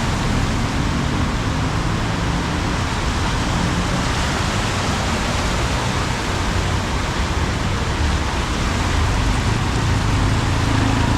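Heavy rain pouring down as a loud, steady hiss. A motor vehicle's engine hums underneath at the start and again near the end.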